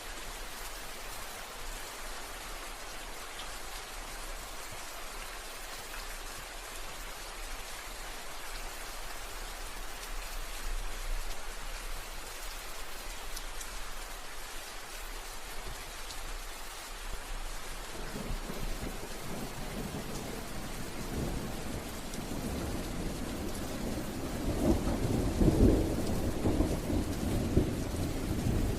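Steady rain falling, with a low rumble of thunder that starts about two-thirds of the way in and swells to its loudest near the end.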